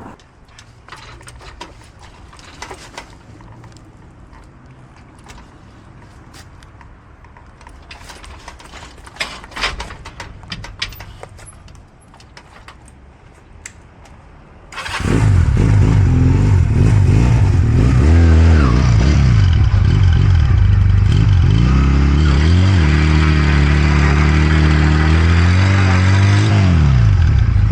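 Scattered clicks and knocks, then about halfway through a Honda Rebel motorcycle engine starts suddenly and keeps running, its pitch rising and falling as it is throttled up and down near the end.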